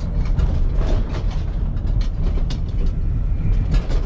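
Low, steady rumble of a moving vehicle heard from inside the cab, with loose scrap metal in the back rattling and clanking in many quick knocks.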